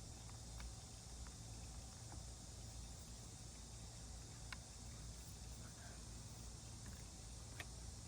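Faint handling sounds from small wooden pieces being worked by hand: a few light, scattered clicks and taps over a low steady hum.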